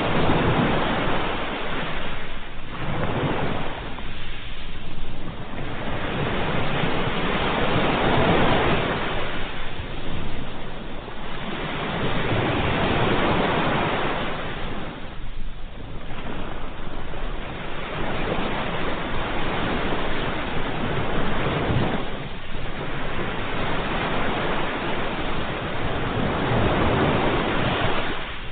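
Ocean waves breaking and washing on the shore, a steady rush of surf that swells and ebbs every few seconds.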